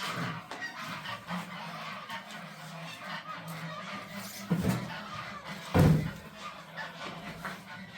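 Farm poultry calling over and over, with two loud thumps, about four and a half and six seconds in, the second the louder.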